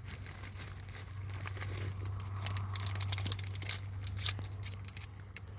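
Irregular crinkling and crackling, like plastic or a wrapper being handled, over a steady low hum.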